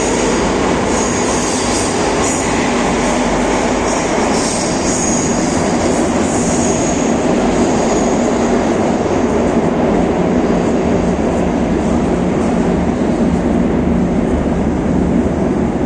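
Madrid Metro train, unit 7079, departing and picking up speed. A steady loud rumble of wheels and running gear carries through, with high wheel squeals on and off in roughly the first half.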